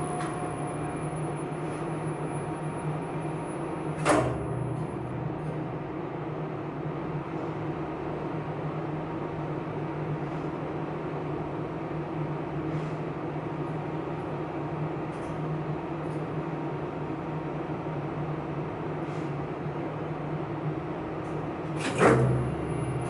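Elevator machine room machinery running with a steady low hum, broken by a sharp clack about four seconds in and another near the end.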